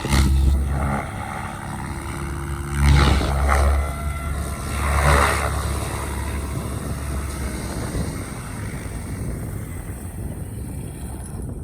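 Electric XLPower Specter 700 V2 RC helicopter's rotor and motor running in flight, a low whirring drone that swells louder about three and five seconds in, then slowly fades.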